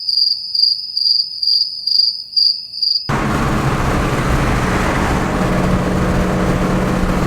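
A cricket chirping about twice a second, clean and alone, cutting off abruptly about three seconds in. It gives way to the steady drone of a car's engine and road noise while driving.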